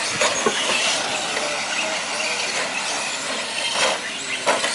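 Radio-controlled 4WD short course trucks racing around the track: a steady noisy run of motors and tyres with faint shifting whines. A couple of sharp clacks come near the end.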